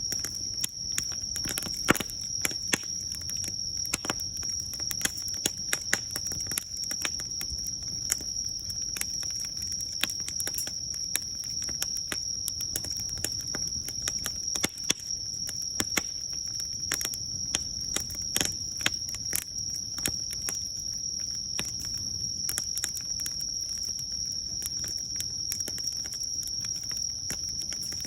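Wood fire burning, crackling and popping with many irregular sharp snaps over a low hiss. A steady high-pitched tone sounds behind it throughout.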